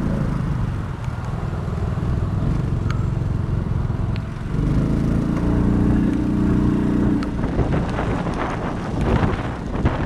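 Road traffic: a motor vehicle's engine hum, louder about halfway through as a vehicle passes close by, under a steady hiss. A crackling hiss takes over near the end.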